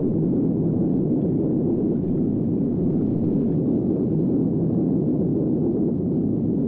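Steady low rumbling roar, a dense noise with no distinct blasts or impacts in it, in the style of a dramatic rumble sound effect.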